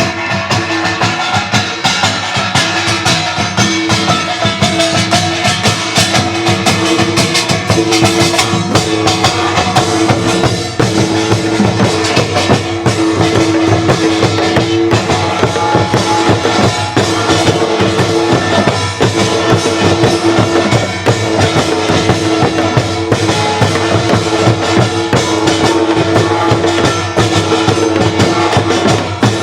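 Korean traditional folk music: drums and other percussion playing a continuous dense rhythm, with a held melodic line over it.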